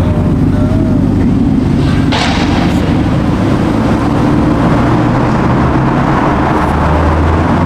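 Loud, steady low rumble of car engines running close by, with a short hiss about two seconds in.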